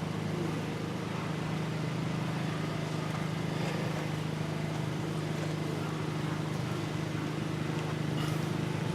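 Honeybees humming around an opened top bar hive: a steady low drone with a few faint ticks.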